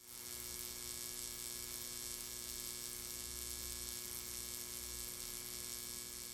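Faint steady electrical hum with a hiss, several steady tones held throughout.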